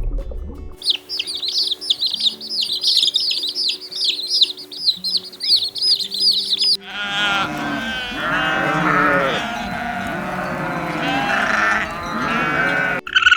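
Small birds chirping fast and high for about six seconds, then sheep bleating, many overlapping calls, until near the end.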